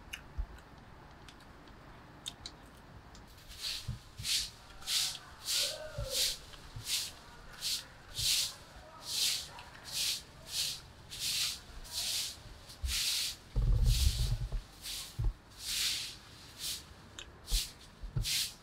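Close-up crunchy chewing of fried battered vegetables, a steady crunch about twice a second that starts a few seconds in. A brief low bump, the loudest sound, comes about two-thirds of the way through.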